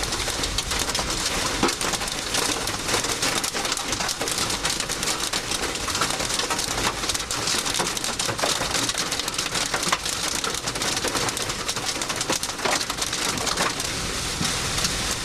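Large hailstones pelting a car's metal body and glass in a dense, continuous clatter of hits.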